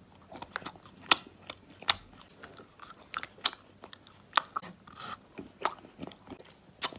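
A person biting and chewing a milk-flavoured candy lollipop: a dozen or so sharp, irregular crunches with soft chewing between them.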